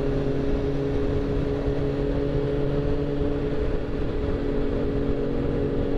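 Motorcycle engine running at a steady speed, a constant low drone with no revving, over steady road noise.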